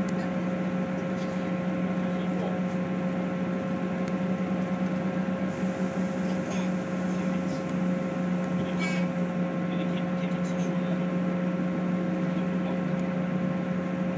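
Interior running noise of a moving diesel passenger train: a steady low drone with a few constant humming tones over wheel-and-track rumble. A brief faint high warble comes about nine seconds in.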